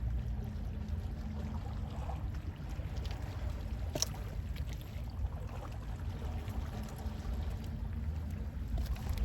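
Gentle sea waves washing and lapping, over a steady low rumble, with one sharp tick about four seconds in.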